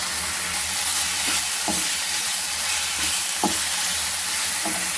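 Raw prawns frying in oil and onion-masala paste in a nonstick pan, a steady sizzle, while a wooden spatula stirs them, scraping the pan a few times.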